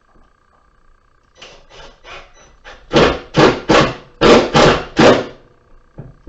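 Hammering: a few light taps, then seven loud, sharp hammer blows in quick succession, about three a second.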